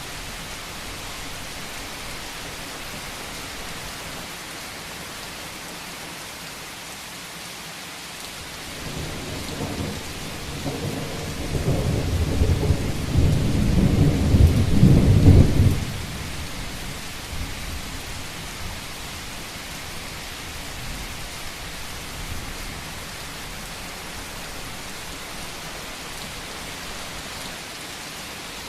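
Rain falling steadily on a roof. About a third of the way in, a low roll of thunder builds over several seconds and then ends abruptly.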